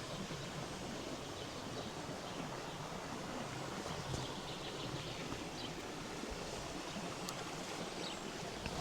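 River water flowing over rocks with a steady rush, with a few faint ticks about four and seven seconds in.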